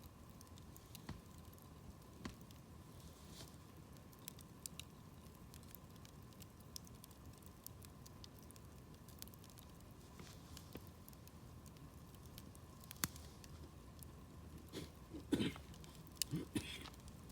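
Wood campfire crackling, with faint scattered pops over a low hiss and a few louder crackles near the end.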